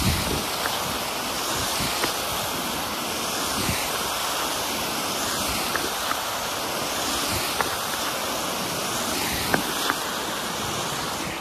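Steady rush of water pouring over a small man-made waterfall, with a few faint clicks over it.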